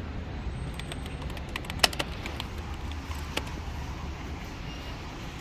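Steady low background rumble with a scatter of light clicks and taps, the sharpest about two seconds in.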